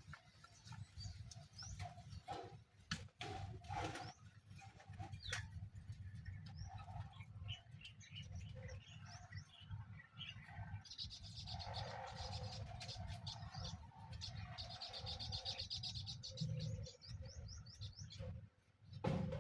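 Birds chirping and calling, with quick rapid trills about eleven seconds in and again around fifteen seconds. A steady low rumble runs underneath, and there are a few sharp clicks.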